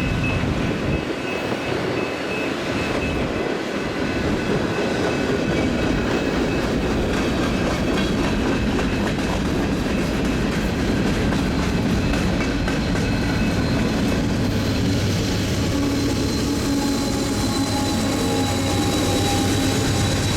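Union Pacific mixed freight train rolling past, its cars clattering steadily over the rails, with faint thin wheel squeal above the rumble.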